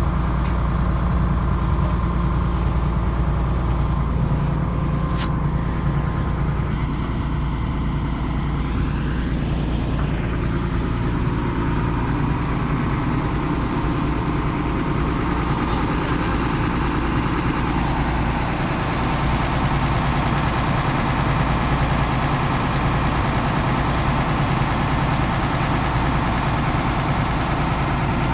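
Excavator's diesel engine running steadily under work, with a brief shift in pitch about eight seconds in.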